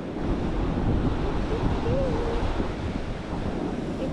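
Strong wind buffeting the microphone, a steady low rumbling roar, with a faint wavering whistle about halfway through.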